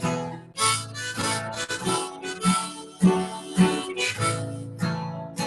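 Harmonica playing an instrumental break over strummed acoustic guitar.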